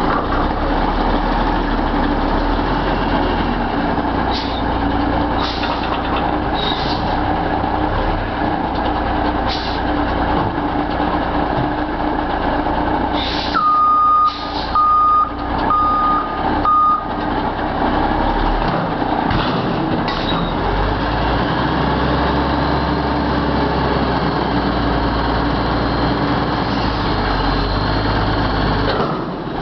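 Garbage truck's diesel engine running steadily, with several short hisses and, about halfway through, four reversing beeps.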